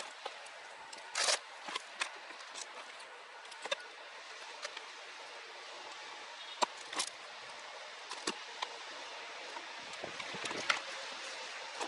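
Scattered light clicks and short taps of small hard parts and tools being handled, over a steady hiss.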